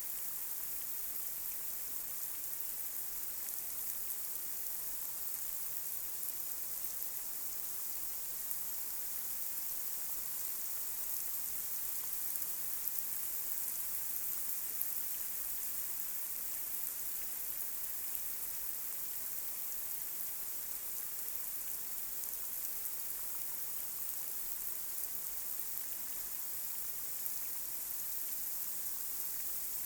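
Light rain falling on a street: a steady hiss of drops, with a few slightly louder drops standing out now and then.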